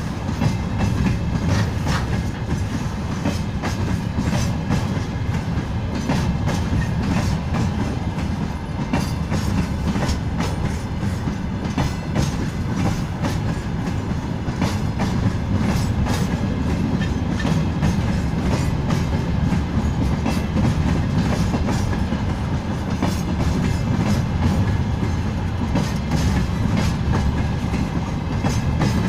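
Freight train rolling past, its wagons' steel wheels rumbling and clicking over the rail joints in a steady, unbroken run.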